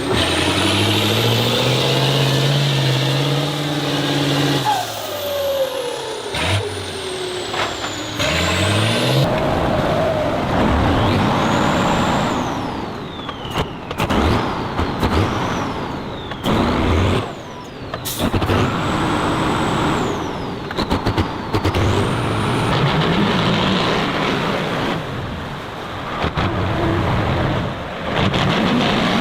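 Heavy vehicle engines revving and labouring, their pitch climbing and falling, with a high whine gliding up and down over them. The sound changes abruptly several times, as at cuts between clips.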